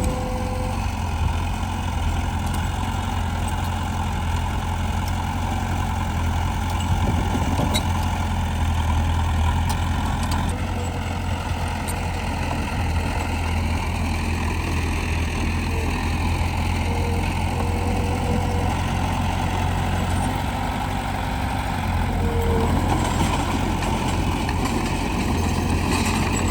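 Heavy diesel engine of construction machinery running steadily, its tone shifting slightly about ten seconds in and again about twenty seconds in.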